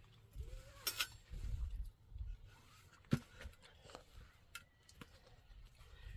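Scattered light knocks and clicks, with one sharp knock about three seconds in, over an uneven low rumble.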